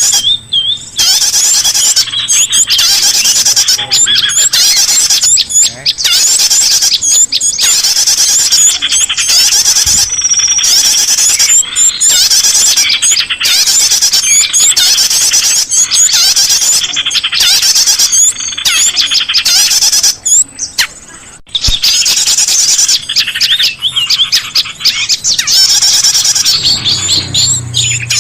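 Loud, dense, overlapping high-pitched chirps and trills of small songbirds: a bird-lure call recording used to attract wild birds. The calls break off briefly here and there, with a longer dip about twenty seconds in.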